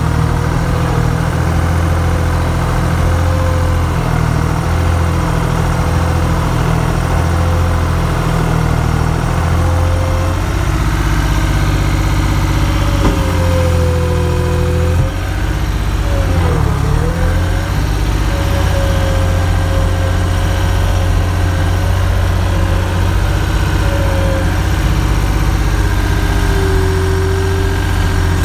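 A vehicle engine running steadily, with a wavering whine over it that dips sharply in pitch and recovers about halfway through.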